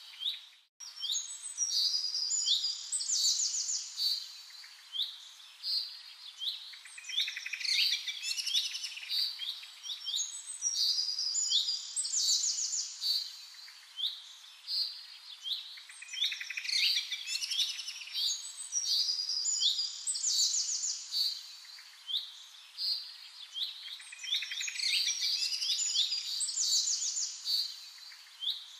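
Small birds chirping and trilling, many short calls overlapping in a steady chorus that swells and thins every few seconds. The sound drops out briefly just after the start.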